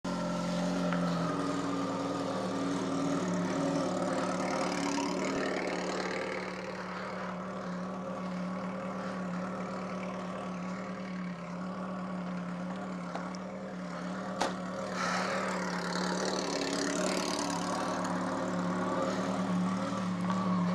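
2006 Kawasaki ZX-14's inline-four engine idling steadily, with one sharp click about two-thirds of the way through.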